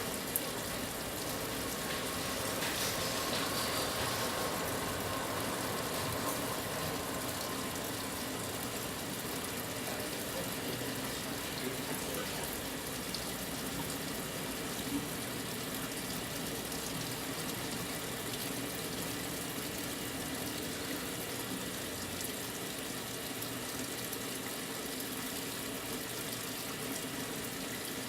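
Brastemp 9 kg washing machine filling with water at the start of its wash cycle: a steady rush of water running into the drum.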